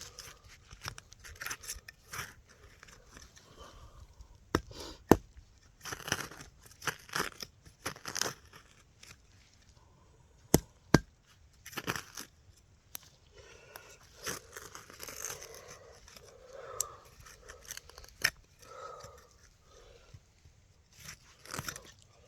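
Hand digging in root-filled soil: a digging tool cutting and tearing through roots and dirt in irregular scraping, crunching strokes, with several sharp knocks.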